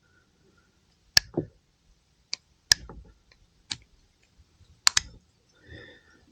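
Sharp metallic clicks and snaps, about six spread irregularly through a few seconds, as a thin steel anti-squeal plate is prised off the back of a motorcycle brake pad.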